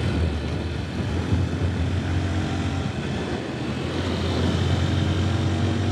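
150cc motorbike engine running steadily at cruising speed, a continuous drone with road and wind noise.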